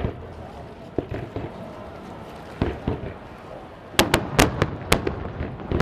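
Fireworks going off: a loud bang at the start, a few duller booms, then a quick run of sharp cracks from about four seconds in.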